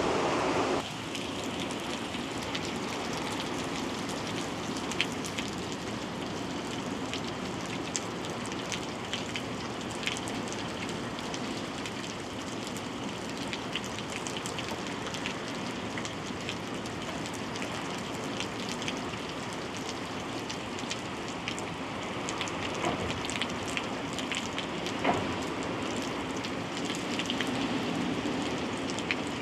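Hurricane Milton's heavy rain pouring steadily onto surfaces, with scattered sharper drop impacts. It is louder for the first second, then settles to an even level.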